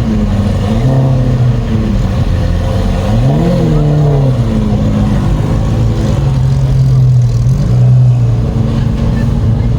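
Car engine running at a steady low idle, blipped once about three seconds in so that its pitch rises and drops back, then settling to idle again.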